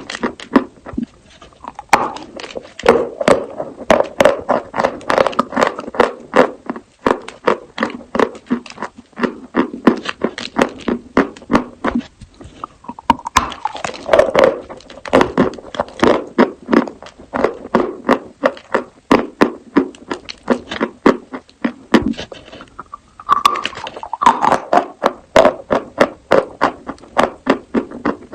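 Close-up crunching and chewing of pieces of edible chalk: a dense run of sharp crackling crunches several times a second, easing briefly about a second in, near the middle and about three-quarters through before new bites start.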